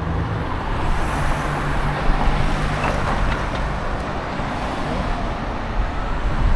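Busy city street traffic with vehicles going by. A nearby engine hums low and steady for the first couple of seconds.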